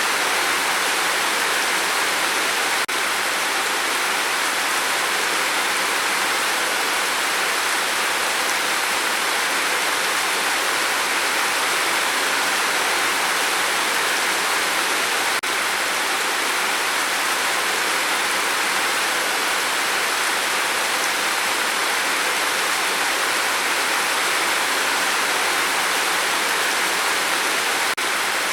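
Steady rain falling: an even, unbroken hiss of water with no single drops standing out.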